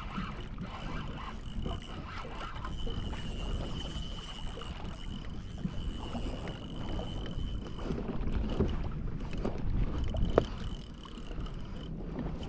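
Wind and water noise rumbling on the microphone aboard a kayak at sea, with a faint steady high whine through much of it and a single sharp click about ten seconds in.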